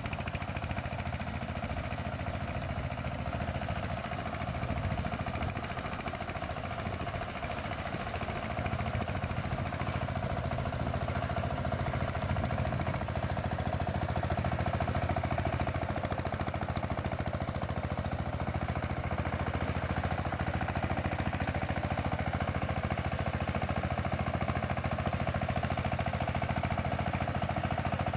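Engine of a mini rotary tiller running steadily with a rapid, even pulse, getting a little louder about nine seconds in.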